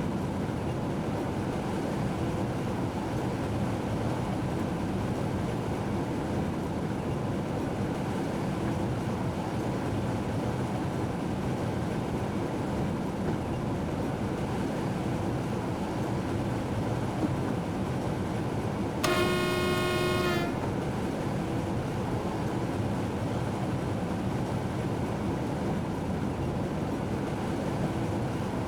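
A train running, heard from inside the locomotive cab as a steady rumble, with one horn blast of about a second and a half roughly two-thirds of the way through.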